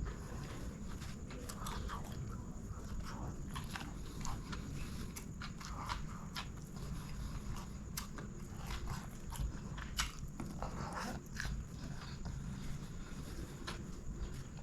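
Close-miked chewing and biting of chicken biryani, with many small irregular mouth clicks over a steady low hum.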